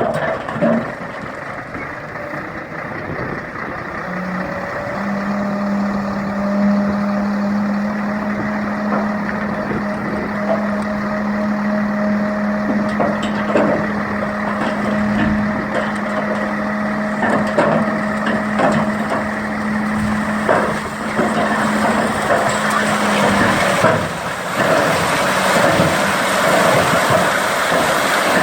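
Gravel dump truck tipping its load: a steady drone from the truck's tipper drive as the bed rises, with scattered knocks and cracks, then a rush of gravel sliding out of the bed near the end.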